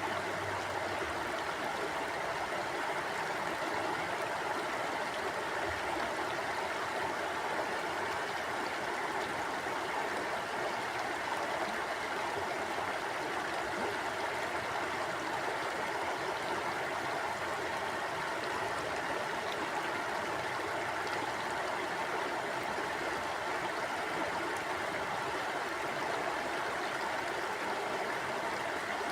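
Mountain stream flowing over rocks: a steady, even rush of water with no pauses.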